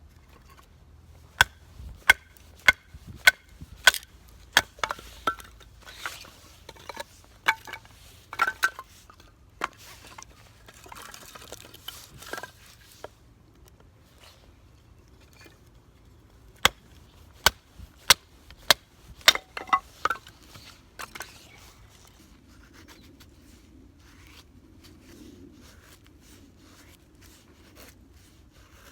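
Sharp knocks and clinks of objects being handled and set down, some with a short metallic ring. They come in two clusters, the second a few seconds after the first ends, followed by faint rubbing and shuffling.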